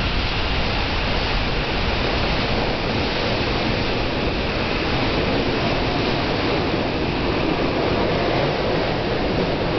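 Tokyu 6000 series electric train moving slowly along the platform: a steady noise of wheels and running gear with no distinct tones.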